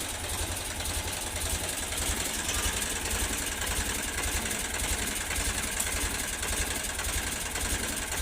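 Tractor engine idling steadily, with an even, fast low pulsing.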